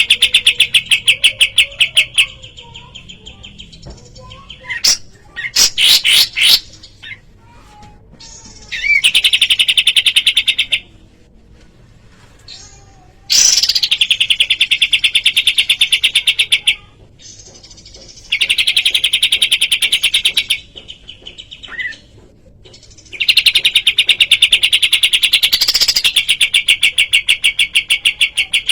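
Kapas tembak songbird singing in rapid-fire bouts of fast, evenly repeated chirps, each bout a few seconds long, with pauses and a few short whistled calls in between.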